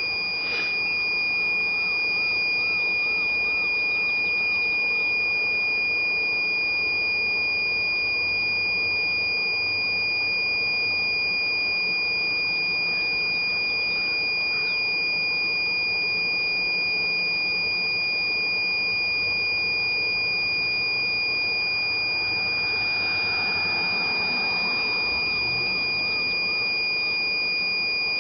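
Steady high-pitched electronic buzzer tone, held without a break.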